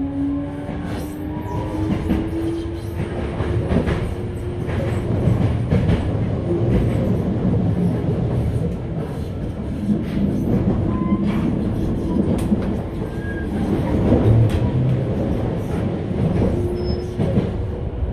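Running noise inside a Toei 5300 series electric train at speed: a steady rumble of wheels on rail, with scattered clicks from rail joints.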